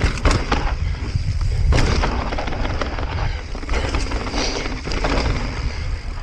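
Mountain bike riding over rough dirt trail, picked up by a small action camera: a steady low wind and rolling rumble with repeated knocks and clatters from the bike and tyres hitting rocks and bumps.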